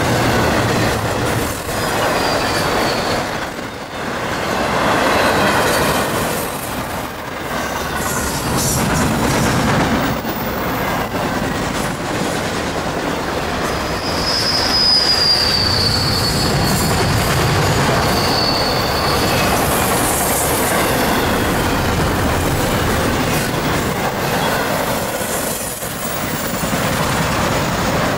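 Train rolling past, its wheels clacking over the rail joints, with a high, drawn-out wheel squeal about halfway through.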